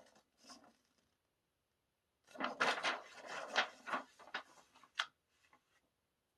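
Paper poster being handled and unfolded, rustling and crackling in a cluster of noises from about two to four and a half seconds in, followed by a single sharp click around five seconds.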